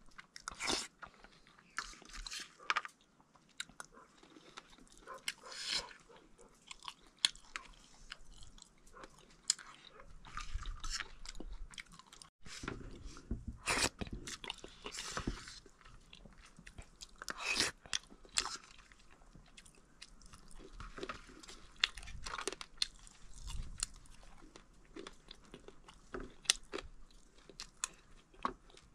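A man chewing and crunching a mouthful of rice and fried dry buffalo meat close to the microphone, with a spoon scraping and clinking on a steel plate between bites.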